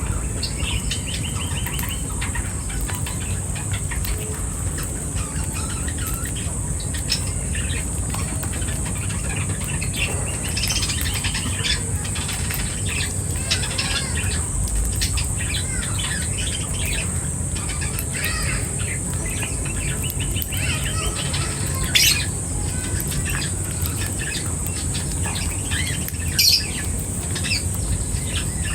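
Small birds chirping and twittering, many short calls in quick succession over a steady low rumble and a constant high hiss, with a couple of louder calls near the end.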